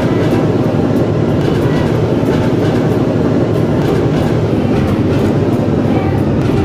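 Battery-powered toy brick-built train running steadily along its track, with a continuous rattling hum and faint irregular clicks.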